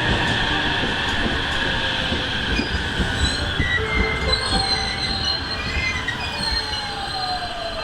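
A train running through the station, its steel wheels squealing in several high tones over a dense rumble with scattered wheel knocks. A tone slides down in pitch through the second half as the sound slowly fades.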